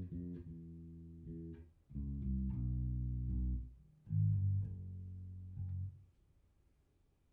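Electric bass, tuned down a half step, played through a Fender Rumble 100 V3 bass combo amp: sustained low notes in three short phrases. The playing stops about six seconds in and the amp falls to near silence.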